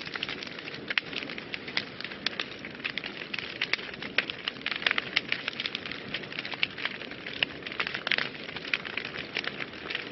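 Wood fire burning in a fireplace, with dense, irregular crackles and pops over a steady low hiss.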